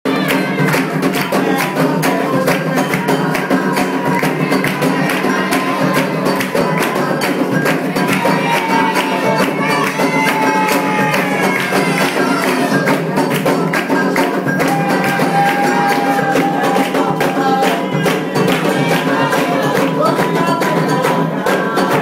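Candomblé ceremonial music: atabaque hand drums playing a dense, driving rhythm with singing over it.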